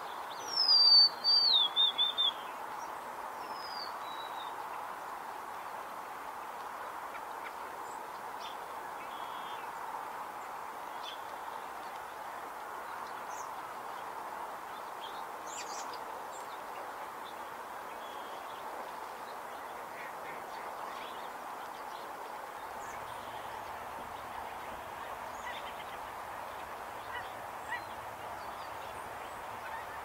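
A songbird sings one loud run of high notes that falls in pitch about a second in, followed by a single fainter note. After that, only a few faint, short chirps over a steady background hiss.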